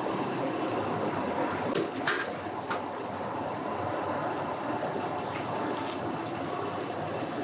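Steady hum of a boat's outboard engine running at low speed, with the wash of water, and a couple of brief knocks about two seconds in.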